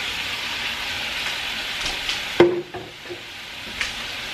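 Shrimp and chunks of summer squash sizzling as they fry in oil and butter in a stainless steel skillet. About two and a half seconds in comes a sharp clink, after which the sizzle is quieter.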